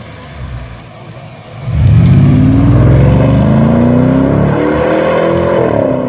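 BMW 650i V8 breathing through a custom stainless-steel exhaust with twin 76 mm tips on each side. It runs low and quiet at first, then about two seconds in it opens up under hard acceleration, loud, with the engine note climbing steadily before dropping sharply near the end.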